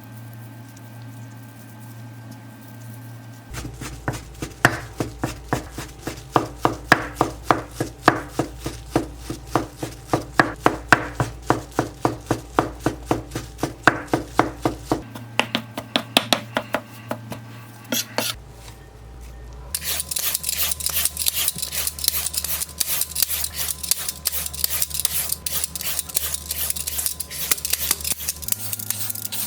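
A kitchen knife chopping ingredients on a cutting board, about two chops a second. After a short pause it gives way to a steady, rough rasping noise that runs to the end.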